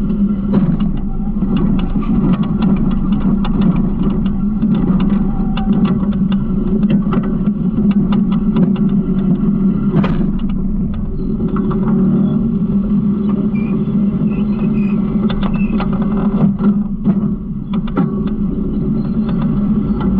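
Garbage truck engine running steadily, with frequent rattles and knocks throughout.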